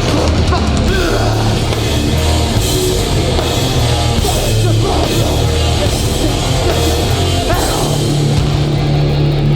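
Live hardcore punk band playing loudly: distorted electric guitars, bass and drum kit, with a held low bass note from about eight seconds in.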